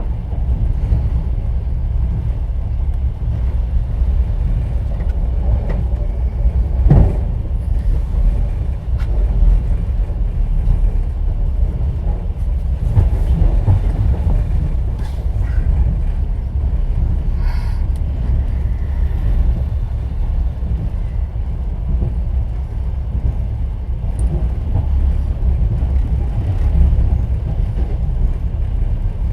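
Passenger train running, heard inside an open-plan sleeper carriage: a steady low rumble of wheels on the rails, with occasional knocks and rattles, the sharpest about seven seconds in.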